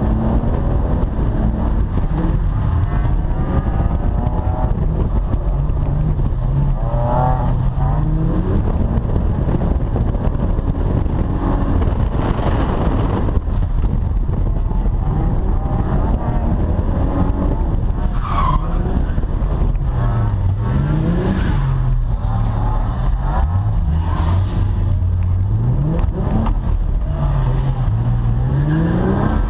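Holden VY Commodore ute engine revving up and down over and over while drifting, its pitch climbing and dropping every few seconds, over the noise of tyres sliding on a wet skid pan.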